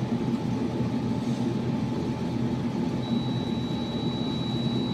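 A continuity tester's beep: a steady high-pitched tone that starts about three seconds in and holds, sounding as the probes make contact. Under it runs a steady low rumble.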